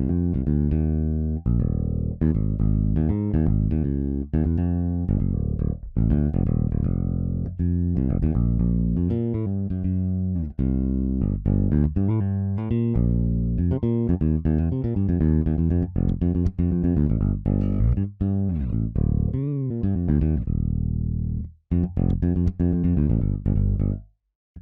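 EZBass virtual electric bass playing funk MIDI bass lines: a busy run of short, punchy plucked notes. It breaks off twice near the end, the second time as one pattern ends and the next begins.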